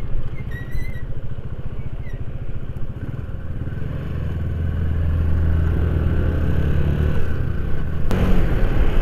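Corven Hunter 150cc motorcycle's single-cylinder engine running under way, its steady note growing louder a few seconds in.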